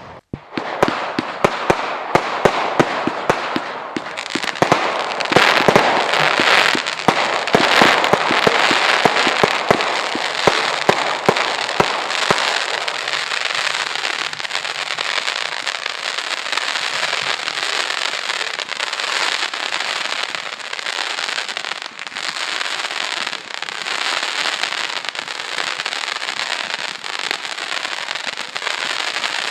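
Fireworks display: rapid bangs over dense crackling for about the first twelve seconds, then a continuous crackle with only occasional bangs.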